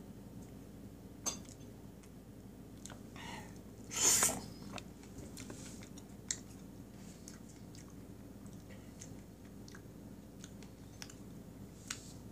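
Close-up mouth sounds of a person eating soft kiwi and cake: wet chewing with scattered small clicks. About four seconds in there is one louder, short wet sound.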